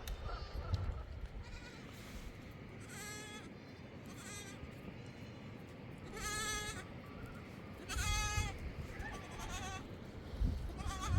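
A flock of goats or sheep bleating: about five separate quavering bleats spread over several seconds, over a steady low background noise.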